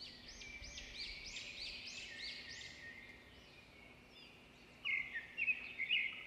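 Birds calling: a run of quick arched chirps, about three a second, for the first three seconds, then a few louder short calls near the end.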